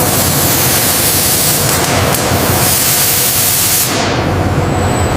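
Loud, steady hissing noise like a spray or jet of air. It is brightest for the first four seconds, then turns duller as the highest part falls away.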